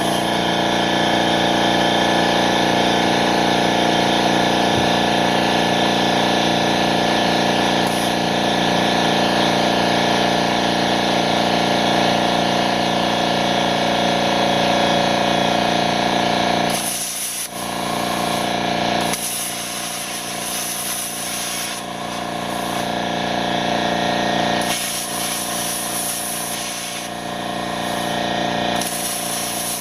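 Power tool running at a steady pitch with a hiss for about the first seventeen seconds, then cutting in and out in uneven stretches while it works material for a crucible.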